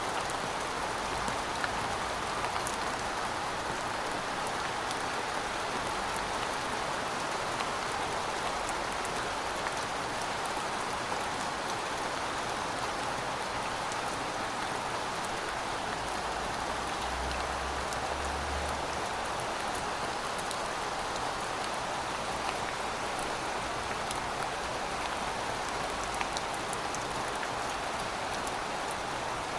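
Heavy rain falling steadily: an even hiss with many small drop ticks.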